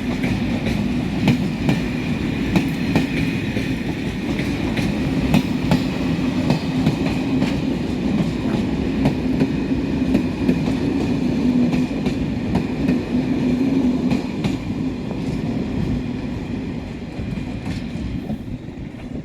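Train running past: a steady rumble of rolling wheels with repeated clicks as they cross rail joints, dying away over the last few seconds.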